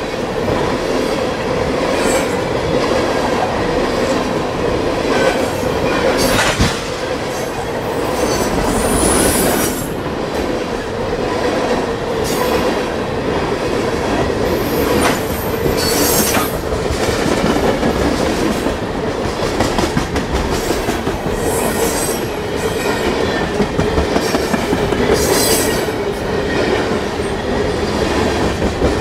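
Freight train tank cars rolling past close by: steel wheels running loudly on the rails with a steady drone, and short high wheel squeals at intervals.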